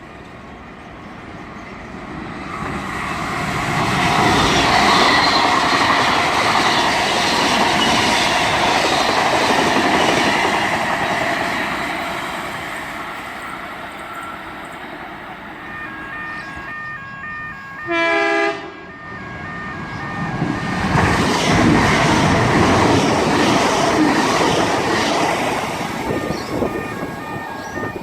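A train passing at high speed: a rush of wheel and track noise swells up and fades away. A second or so of horn-like tones comes about two-thirds in, followed by a short, loud train horn blast. Then another fast train pass-by swells up near the end.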